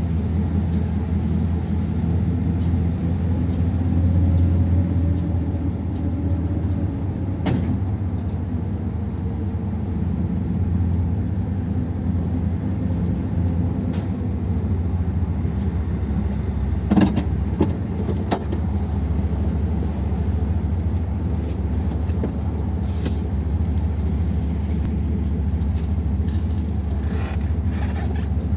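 1957 Ford Thunderbird's V8 engine running steadily on a two-barrel carburettor setup, swelling briefly about four seconds in. A few sharp knocks come through in the middle.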